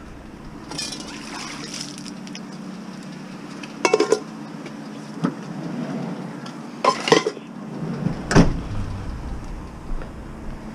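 Aluminum pots clanking as they are handled: short metallic clinks in clusters about four and seven seconds in, with one more just after eight, and some rustling near the start.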